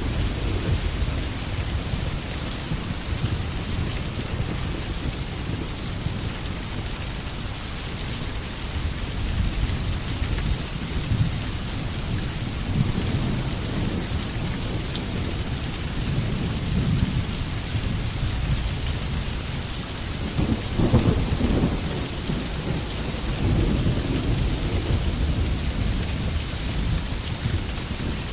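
Steady rain falling, with low rolling thunder rumbling underneath in slow swells; the strongest roll comes about three-quarters of the way through.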